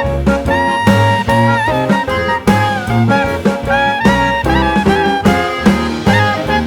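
Upbeat swing-jazz background music: saxophone and brass carrying the melody over a walking bass and drum kit with a steady beat.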